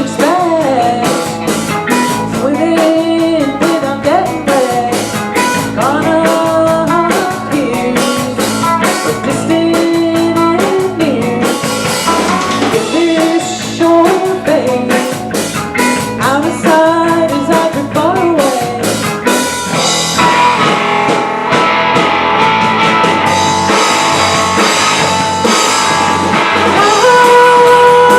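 Live band playing a song: a singer over guitar and drum kit, turning to a fuller, more sustained passage about twenty seconds in.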